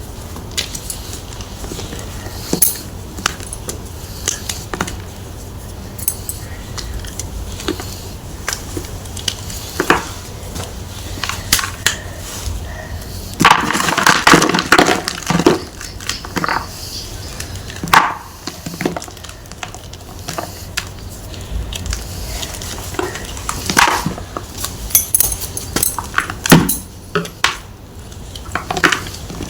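Gym chalk crunching and crumbling as it is crushed, in irregular sharp crackles, with a longer dense stretch of crumbling about halfway through and more clustered crunches near the end.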